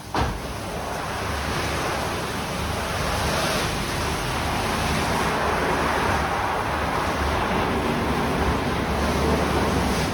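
Istobal Restyle rollover car wash running: a loud, steady rush of water spraying over the car, with the machine's low rumble underneath. It switches on abruptly at the start.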